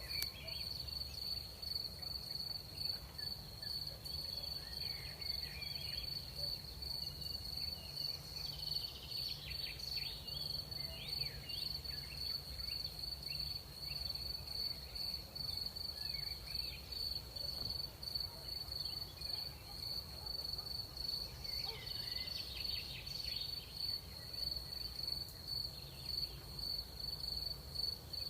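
Crickets trilling in a steady, continuous high-pitched chorus over a low rumble. Twice, about a third of the way in and again about three-quarters through, a patch of short higher chirps rises above it.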